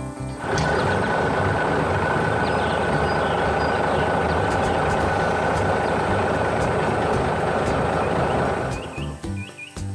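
Heavy vehicle engine running as a cartoon sound effect: a loud, steady, rough mechanical noise with a thin whine on top. It starts about half a second in and cuts off suddenly near the end, with music faintly underneath.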